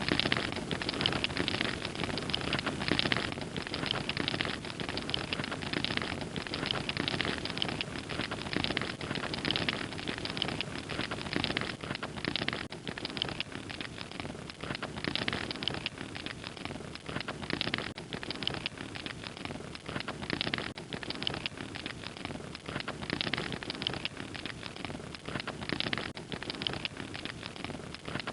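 Fire crackling steadily, with dense irregular pops and snaps over a soft hiss.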